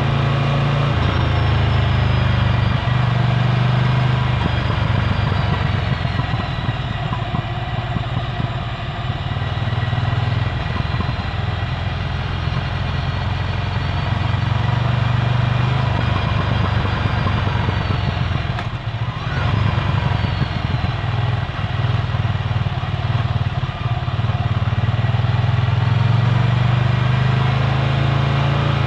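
Ducati Scrambler Full Throttle's L-twin engine running at low revs through a Termignoni exhaust, a steady deep exhaust note whose pitch shifts slightly as the bike rides along. The sound briefly drops away about two-thirds through, then picks up again.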